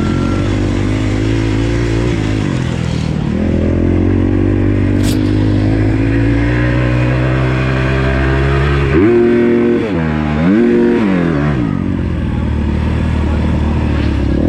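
Motocross bike engine running at low revs, its pitch creeping up slowly. About nine and ten and a half seconds in, the throttle is blipped twice, each time revving up sharply and dropping back. A single sharp click comes about five seconds in.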